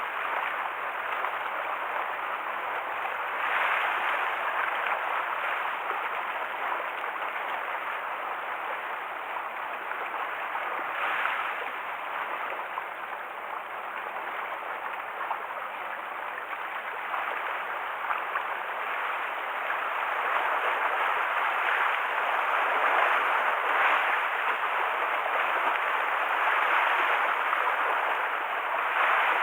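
Typhoon-driven waves washing and splashing against the shore: a steady rushing that swells louder and eases off every several seconds.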